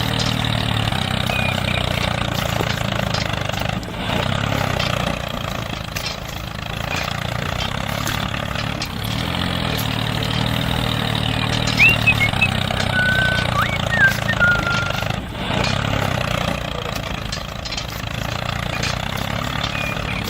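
A small engine running steadily at an even idle-like pace, with a few brief high chirps about twelve seconds in and again a couple of seconds later.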